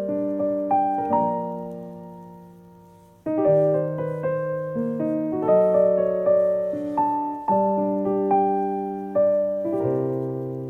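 Background piano music: a slow run of single struck notes that die away about three seconds in, then resume and carry on.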